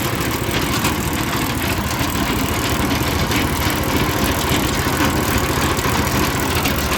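Small 5 horsepower petrol engine with a weighted (mechanical) governor running steadily under its governor, driving a belt and chain drive.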